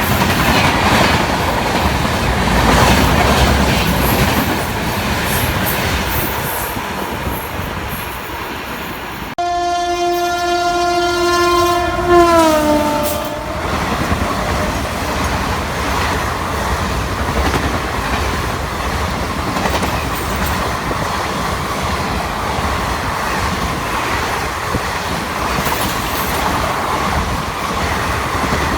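Express train rushing past at speed. About nine seconds in, the sound changes abruptly and an electric locomotive's horn sounds one long note for about three seconds, its pitch sliding down as the locomotive passes. After that comes the steady clatter of the coaches going by.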